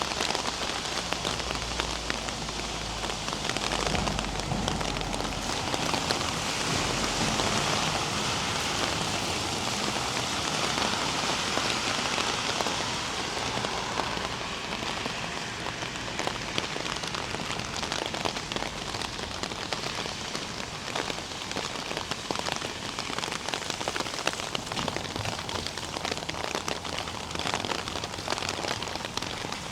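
Steady rain falling and pattering on the ground and hard surfaces, with many fine drop ticks, a little heavier in the first half.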